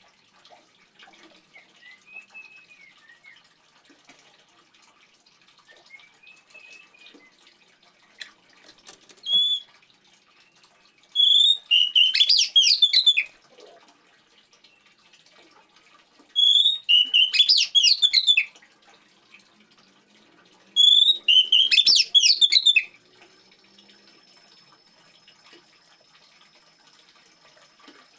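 Water trickling softly, with a songbird singing three loud bouts of quick, varied whistled notes, each about two seconds long, roughly five seconds apart; a faint steady high whistle comes in near the end.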